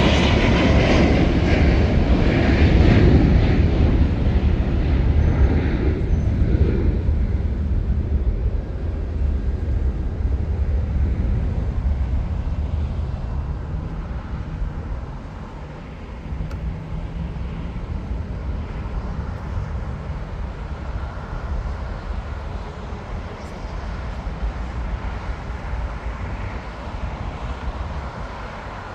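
Jet airliner engines, loud at first and fading away over about fifteen seconds as the aircraft moves off, leaving a quieter steady low rumble of airport noise.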